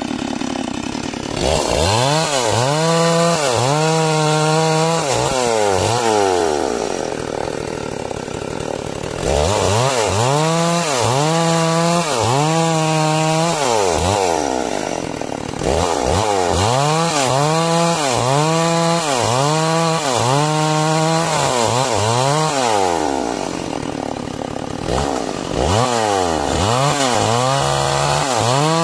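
Chainsaw ripping timber lengthwise into beams, its engine pitch dipping and rising about once a second as the chain bites into the wood. Twice the saw drops back to quieter running before it is pushed into the cut again.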